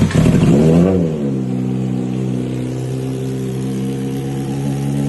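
Kawasaki Ninja ZX-25R's inline-four engine with an Austin Racing exhaust, given one quick rev in the first second, then settling into a steady idle.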